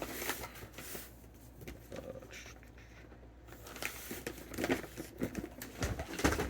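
Crinkling and light knocks of fireworks packaging being handled and moved. The noises come irregularly, sparse in the middle and busier near the end.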